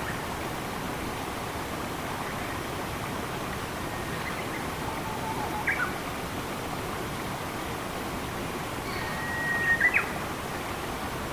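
Steady rush of flowing water with birds calling over it: a couple of short chirps about halfway through, and near the end a held whistle that breaks into a few sharp chirps.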